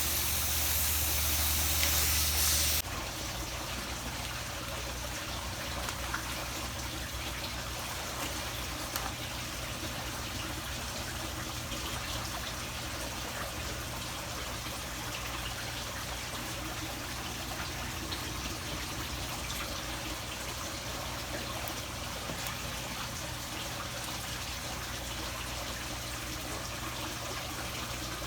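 Running water: a louder hissing spray with a low hum cuts off suddenly about three seconds in, leaving a steady, quieter trickle.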